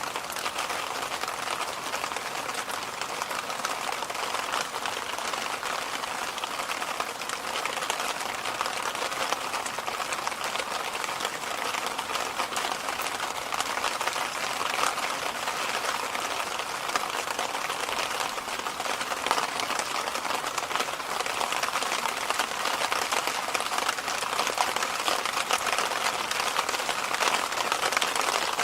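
Electric fan running steadily: an even rush of air, strongest in the middle and upper range with little low hum, with a fine crackly texture running through it.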